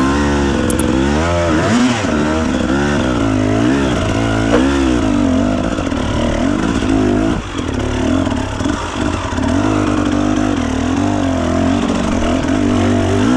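Enduro dirt bike engine running under a rider's throttle, its pitch swinging up and down several times a second in quick revs during the first few seconds. It then settles into steadier running, with a short drop in revs about halfway through.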